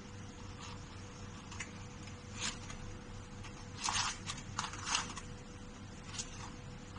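A few short clicks and rustles of small objects being handled, clustered about four to five seconds in, over a steady low hum with a faint constant tone.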